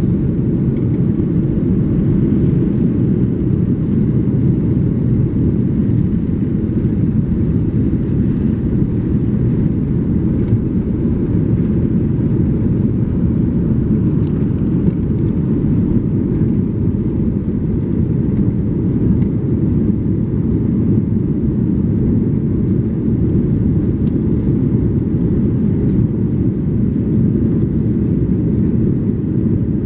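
Airbus A330-300 jet engines during takeoff, heard as a loud, steady low rumble that holds an even pitch and level throughout.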